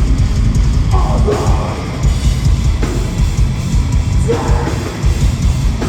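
Heavy metal band playing live at full volume, with drums and a dense low end under a vocalist's yelled "oh" about a second in and another vocal line around four seconds in.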